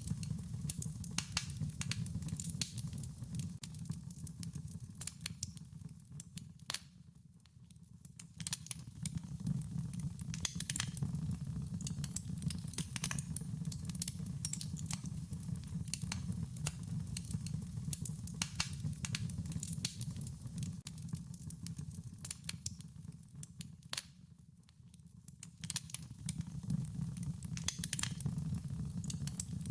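Wood fire crackling, with frequent sharp pops and snaps over a steady low rumble of burning, briefly quieter twice, about a quarter of the way in and again near the end.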